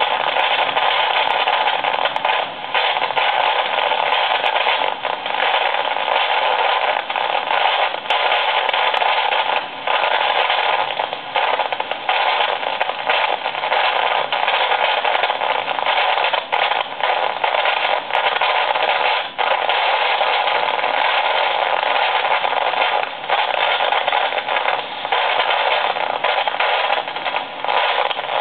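A small AM radio tuned between stations gives a continuous loud hiss of static, broken by irregular crackles and pops. The noise is lightning interference from a nearby thunderstorm.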